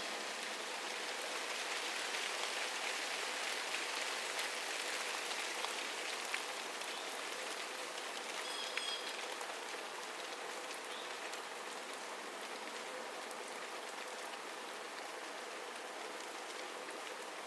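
Steady rain falling, with scattered drops ticking on surfaces. A short, high bird call sounds once about halfway through.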